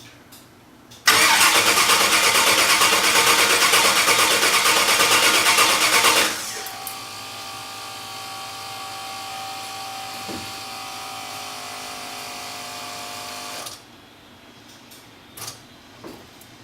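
A car engine being cranked by its starter motor for about five seconds without catching: the engine is getting no fuel. Then a quieter steady electric whine for about seven seconds that stops suddenly.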